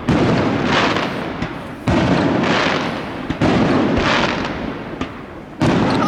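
Aerial fireworks bursting: four loud bangs about one and a half to two seconds apart, each trailing off over a second or more.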